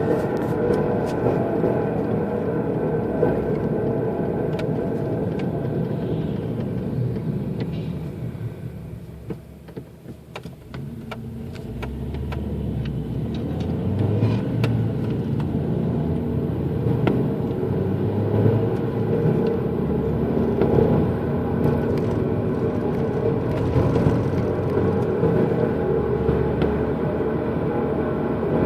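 A loud, steady low rumbling drone with several steady tones layered in it. It fades away about nine seconds in and swells back up a few seconds later.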